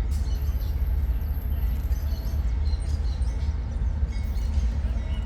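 Long loaded freight train of grain wagons rolling past: a steady low rumble, with birds chirping.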